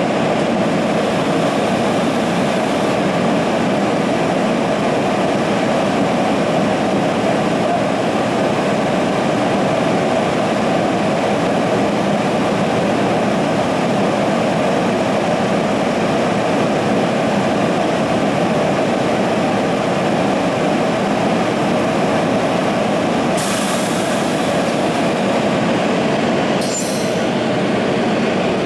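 A passing train's wheels rolling on the rails: a loud, steady rumble.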